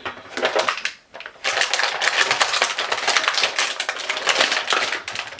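Plastic blister packaging crackling and clicking as an action figure is pulled out of its tray. A short burst comes first, then dense crackling from about a second and a half in.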